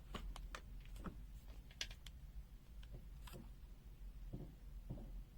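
Faint, scattered small clicks and taps, about eight of them at irregular intervals: multimeter test probes being handled against a resistor's leads during a resistance measurement.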